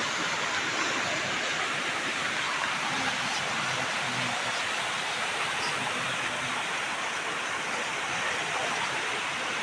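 Floodwater rushing: a steady, dense roar of flowing water with no let-up.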